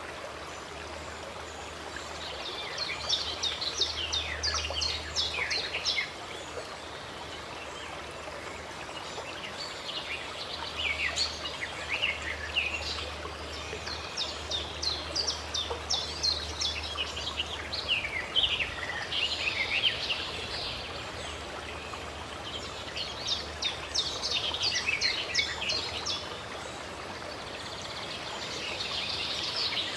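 Running water with small songbirds singing over it in several spells of rapid, high chirping phrases.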